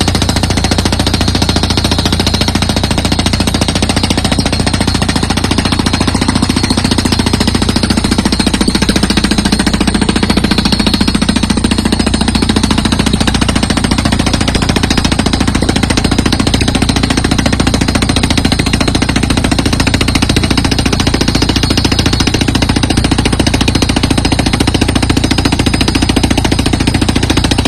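Rotary piling drill rig at work: a loud, steady, fast rattle of rapid impacts that does not let up.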